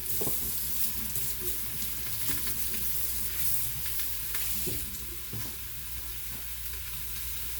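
Onions sizzling in the stainless steel pot of a pressure cooker: a steady high hiss with a few faint knocks.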